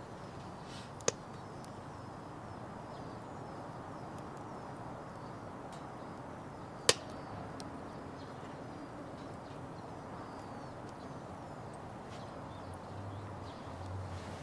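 Wood fire burning in a Petromax Atago fire pit: a steady low hiss with a small sharp pop about a second in and a louder crack about seven seconds in.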